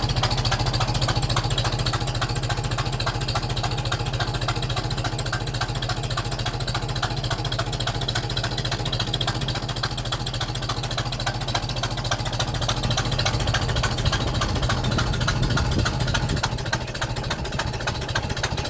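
Farmall Super M tractor engine running steadily, with a rapid knocking/tapping in time with its firing. This is the sound of an exhaust leak, which the owner first took for a cracked exhaust manifold but now thinks is just the manifold gasket.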